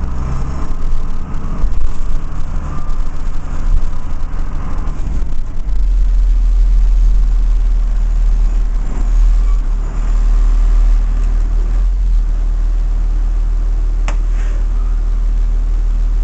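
Cummins 5.9 diesel engine of a 2001 Blue Bird All American school bus running, heard from inside the bus as a loud low rumble that turns steady after about five and a half seconds. A single sharp click sounds near the end.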